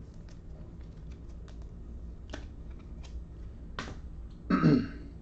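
Light scattered clicks and taps of trading cards and plastic card holders being handled on a table, with a short throat-clearing-like vocal sound near the end.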